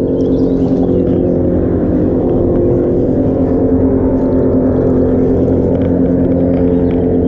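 A boat motor running with a steady, constant hum.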